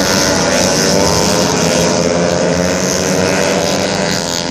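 Several tuned 130 cc automatic racing scooters running flat out together, their engines whining at high revs, the pitches of the different machines rising and falling over one another.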